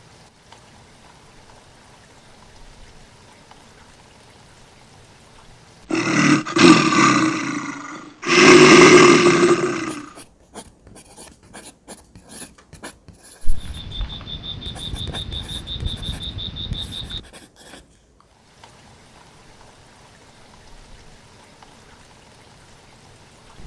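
Two loud big-cat roars, each about two seconds long, one straight after the other. These are followed by scattered clicks and nearly four seconds of rough noise with a steady high tone, which cuts off abruptly.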